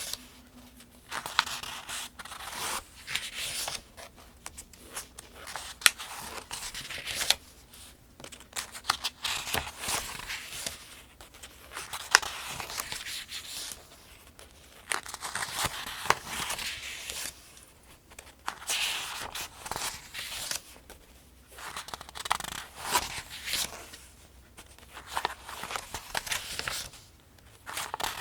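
Pages of a thin newsprint almanac being turned by hand at a steady pace, each turn a papery swish with crisp snaps and crinkles, about a dozen turns.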